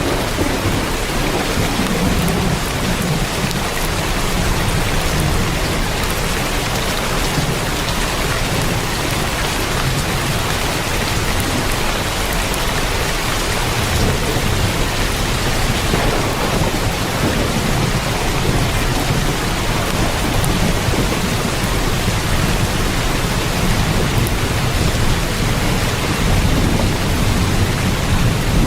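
Heavy rain falling on a tin roof: a steady, dense patter with a low rumble underneath that swells and fades slowly.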